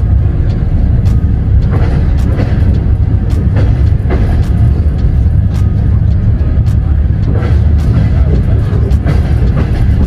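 A passenger train carriage rolling slowly, heard from inside: a steady low rumble with irregular clacks and knocks from the wheels and couplings. Music plays over it.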